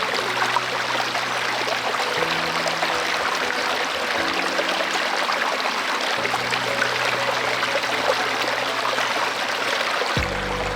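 Steady rushing of flowing water, like a mountain stream, with soft background music whose held low chords change every couple of seconds.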